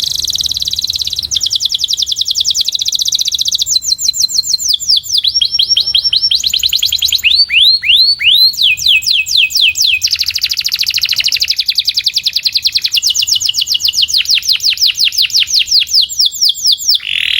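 A domestic canary singing a long unbroken song of rapid trills, each run a quick string of repeated notes, switching from one trill type to the next every second or two. Around the middle it slows into a few falling whistled notes, and the song stops abruptly near the end.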